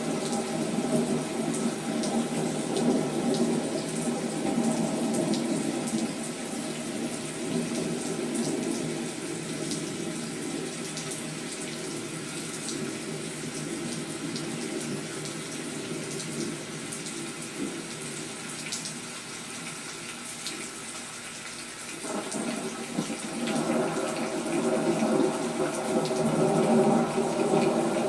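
Heavy rain falling steadily as a continuous hiss. It eases off for a while and grows heavier again about 22 seconds in.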